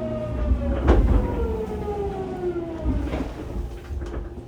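Hitachi GTO-VVVF inverter of a Fukuoka City Subway 2000 series train whining in a falling pitch as the train brakes into a station, the tone stepping back up about three seconds in and falling again. Two sharp clunks come about one and three seconds in, over the low rumble of the running gear.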